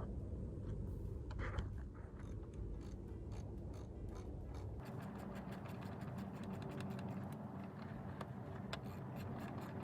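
Hands working on engine parts: scattered light clicks and scrapes of metal and rubber fittings being handled, over a steady low hum.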